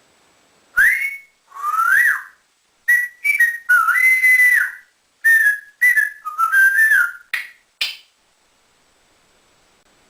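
African grey parrot whistling a string of clear notes, some sliding upward and some held steady with quick dips, stopping about eight seconds in.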